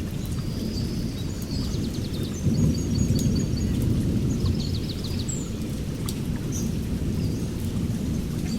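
Heavy rain falling steadily under a continuous low rumble of distant thunder. A bird chirps in quick runs of short high notes between about one and a half and four and a half seconds in.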